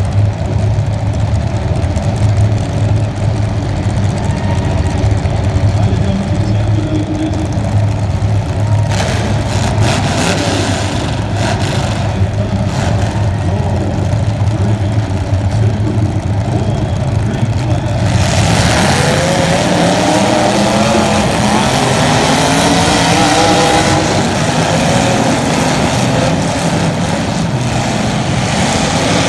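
Race car engine running steadily at low revs, then about two-thirds of the way through revving harder, its pitch climbing and falling repeatedly under acceleration.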